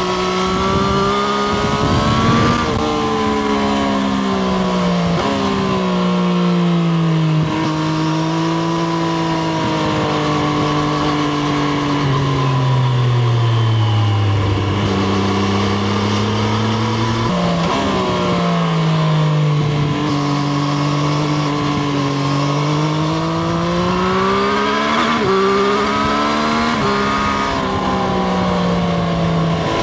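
Triumph Street Triple RS's 765 cc three-cylinder engine under way, its pitch rising and falling with the throttle and stepping abruptly at several gear changes. About two-thirds of the way through, the revs drop low, then pick up again sharply.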